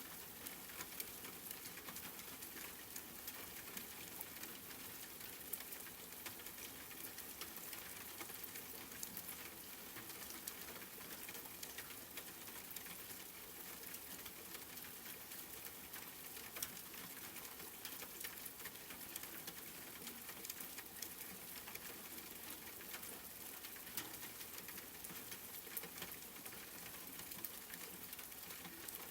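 Steady rain, a dense patter of drops with frequent sharper drop ticks scattered through it.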